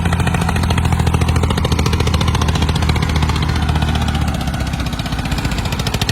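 Diesel tractor engine running with a fast, even firing beat; its low steady drone drops away about four seconds in.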